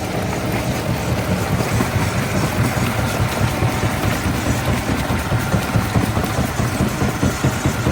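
Stone crusher plant machinery running steadily, a heavy rumble with an even pulsing beat of about three to four a second that grows stronger in the second half.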